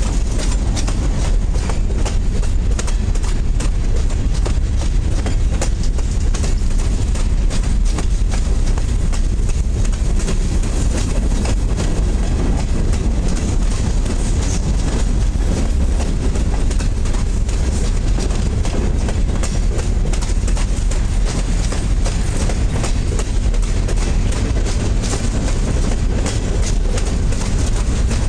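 Covered hopper cars of a freight train rolling past close by: a steady low rumble with a constant run of clicks and clacks from the wheels on the rails.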